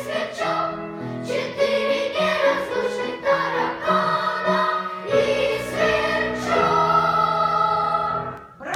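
Children's choir singing in held notes, the sound falling away near the end.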